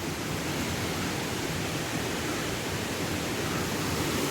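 Small woodland waterfall rushing: a steady, even rush of falling water.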